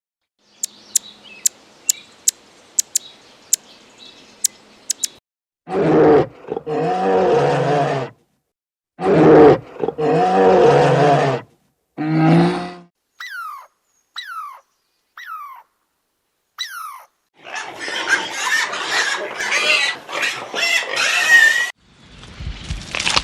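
A run of separate animal sounds. First come a few seconds of sharp ticks. Then three loud, long, pitched calls about a second apart make up the loudest part. After them come five short falling squeaks, and near the end a noisy, rustling stretch.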